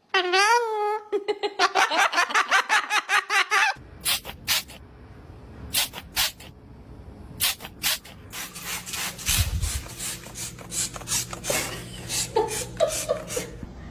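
Pet parrot calling: a wavering, warbling call, then a fast rattling chatter for a few seconds. After about four seconds come scattered sharp clicks and scratchy rubbing sounds over a low hum, with a few short rising squeaks near the end.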